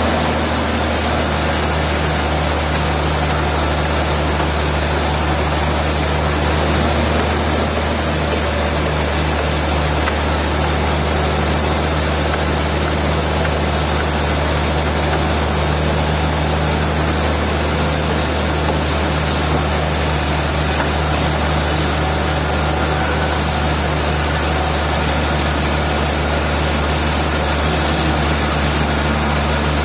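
Sawmill machinery running steadily: a constant low engine-like drone with a hiss over it, no change in load or pitch.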